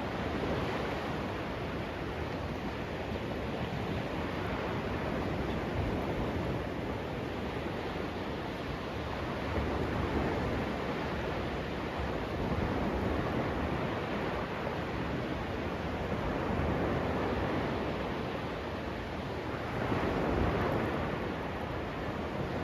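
Sea surf washing onto a beach, a steady rush of waves that swells every few seconds.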